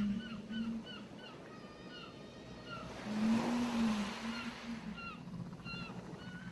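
An ocean wave washing in on the shore, swelling about three seconds in and fading, under a rapid series of short bird chirps. A low moaning tone sounds near the start and again with the wave.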